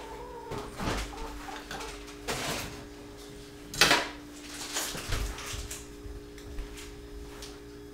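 Kitchen handling sounds: pans and utensils knocked about on a gas stove and a refrigerator door opened and shut, a handful of sharp knocks with the loudest about four seconds in. A steady low hum runs underneath.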